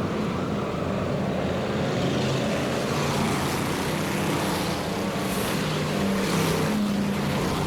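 Stock car engines running on a short oval track: a steady din of several engines, their pitches shifting against one another.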